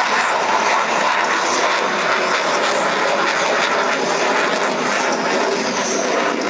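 Jet aircraft engine noise: a loud, steady rush as a military jet flies over.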